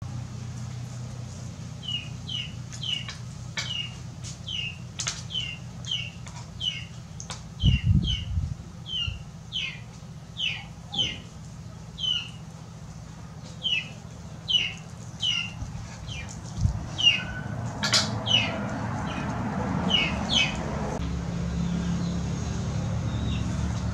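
A bird chirping over and over, short falling chirps two to three a second, over a low steady hum. A dull thump comes about eight seconds in.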